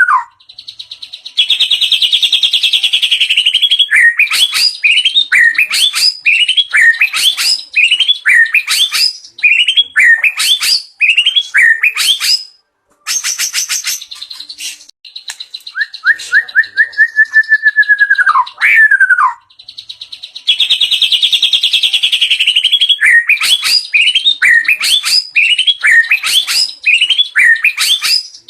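White-rumped shama (murai batu), a young bird in its first season, singing loudly and almost without pause: long whistles that dip and then swoop up, buzzy trills, and runs of quick slurred whistles about two a second. The song is packed with varied phrases and mimicked calls.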